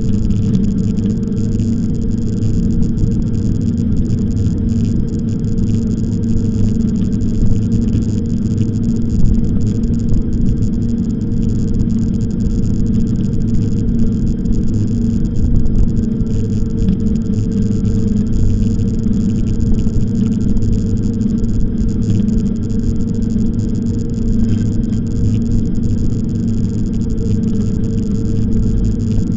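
Steady low rumble of e-bike riding noise, loud and unbroken, with most of its weight in the low end.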